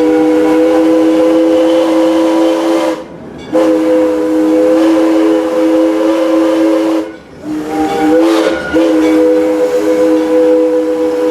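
1901-built steam locomotive's chime whistle blowing long blasts, a chord of several steady tones held together, broken by brief gaps about three and seven seconds in and still sounding at the end.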